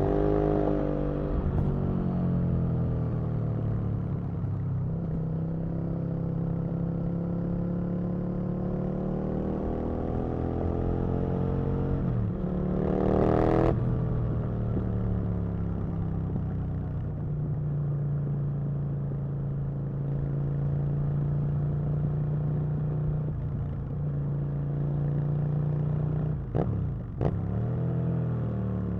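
Aprilia RSV Mille's 998 cc V-twin engine running on the road, its pitch rising and falling with the throttle. It climbs sharply about thirteen seconds in, then falls away, with a few quick blips near the end.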